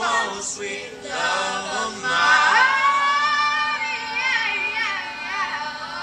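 High-pitched singing: a voice sweeps up about two seconds in and holds high, wavering notes with vibrato.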